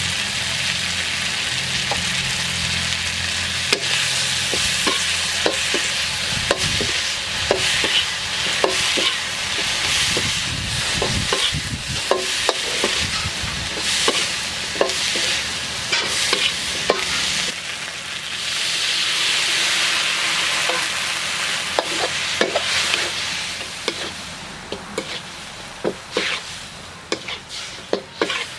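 Chaya leaves and egg stir-frying in a pan: a steady sizzle with frequent clicks and scrapes of a utensil against the pan as it is stirred. A low hum runs under the first half, and the sizzle dies down near the end while the utensil clicks continue.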